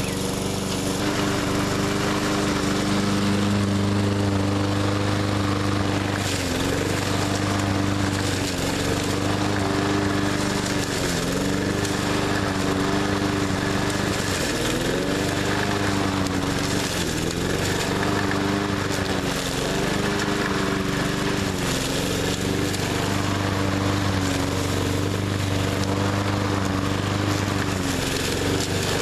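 20-inch walk-behind push mower's small engine running steadily, its pitch dipping briefly and recovering several times as it bogs under load cutting heavy brush.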